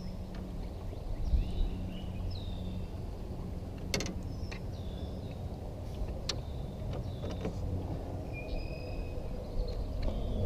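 Steady low outdoor rumble with short, high bird chirps several times over, and a few sharp clicks; a faint hum fades out in the first few seconds.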